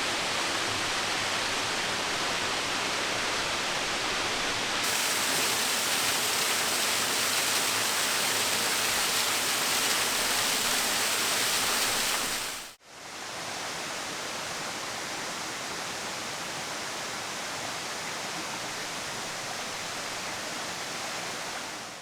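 Waterfall: a steady rush of falling water. The hiss brightens about five seconds in, drops out briefly just past halfway, and resumes a little quieter.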